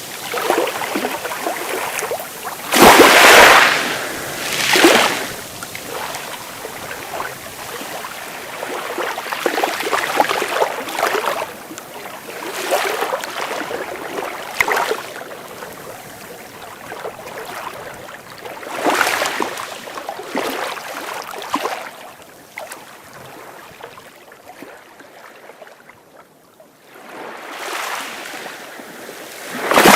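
Sea waves breaking in surges of hiss and wash, one every few seconds, the loudest about three seconds in. The wash eases to a quiet lull near the end before the next wave builds.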